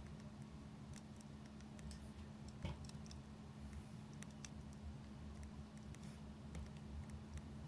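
Faint campfire crackle: scattered, irregular small pops and clicks over a low steady hum.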